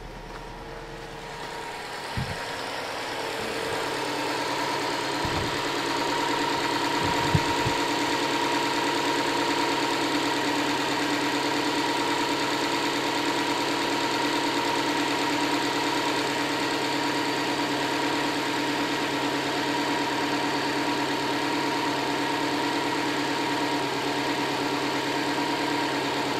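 Subaru WRX STI's turbocharged flat-four boxer engine idling in the cold. It grows louder over the first several seconds, then runs steadily, with three short sharp clicks in the first half.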